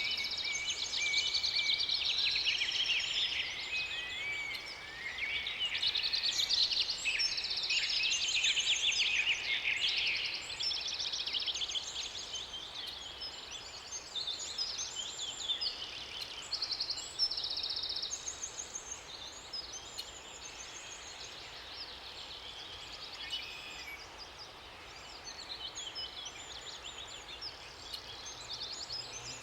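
Several songbirds singing together in many overlapping chirps, trills and whistles. The song is dense for the first ten seconds or so, then thins to scattered phrases over a faint steady background hiss.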